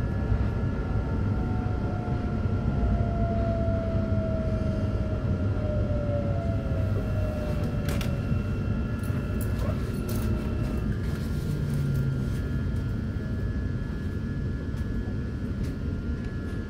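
Electric passenger train running with a steady rumble of wheels on rails, its motor whine falling slowly in pitch over the first half as it slows. There are a couple of faint clicks midway.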